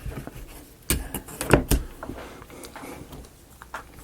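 Wooden model-kit pieces knocking and clicking as they are handled and fitted together, with a few sharp knocks about a second in and at a second and a half.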